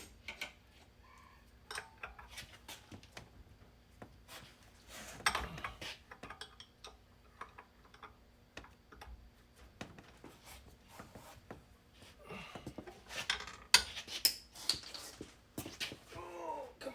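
Irregular clinks and knocks of small metal parts and tools being handled, busiest about five seconds in and again near the end, over a faint steady hum.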